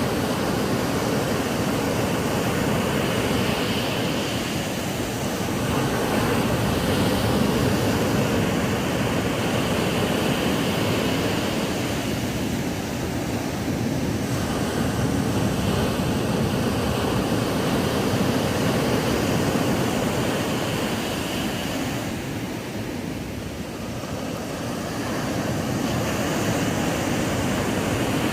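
Ocean surf breaking on a sandy beach: a continuous rush of waves that swells and eases slowly every several seconds.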